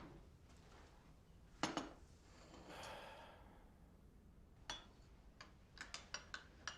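Quiet room with a sharp click about two seconds in and a soft rustle, then a quick run of light clicks near the end.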